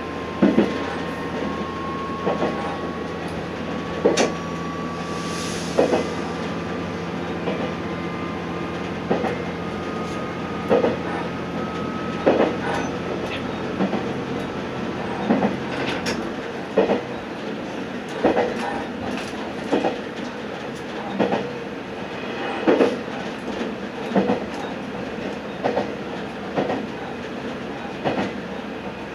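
Diesel railcar running along the line, its wheels clacking over rail joints about every second and a half, the beats coming slightly closer together as it gathers speed. A whine rises slowly in pitch through the first half, and the low engine drone drops away about sixteen seconds in as power is shut off.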